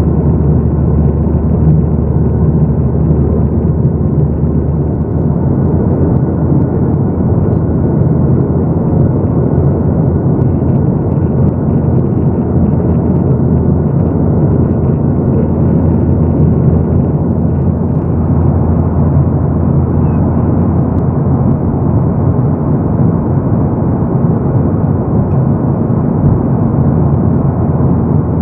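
Steady cabin drone of a Boeing 737-800 in flight: its CFM56 engines and the rushing airflow, heard from inside the passenger cabin, with a low steady hum under the noise.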